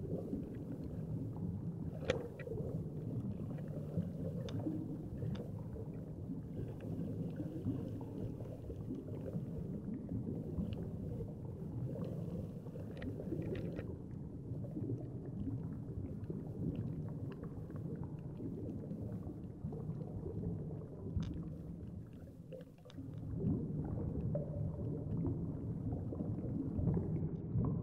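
Underwater ambience picked up by an action camera while snorkeling: a steady muffled low rumble of moving water with scattered faint clicks.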